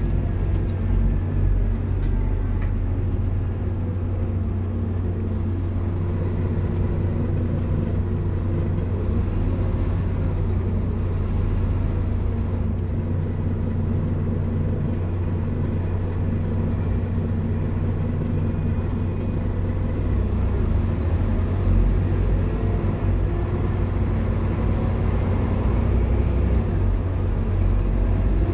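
Scania K230UB Omnilink bus's diesel engine running at a steady speed with a low, even hum and road noise.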